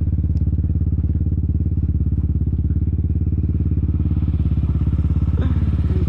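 Honda TRX450R ATV's single-cylinder four-stroke engine idling steadily, with an even, rapid low pulse.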